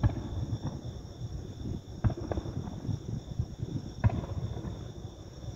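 Fireworks shells bursting over the sea: sharp bangs about two seconds apart, with a smaller crack just after the second, over a low rumble.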